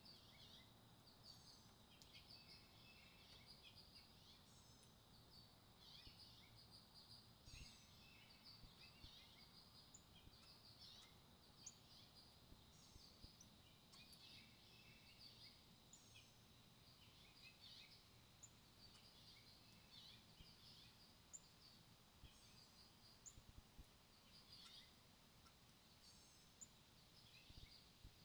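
Faint bird chirps and short calls: many quick, high notes scattered throughout, over a low steady background rumble.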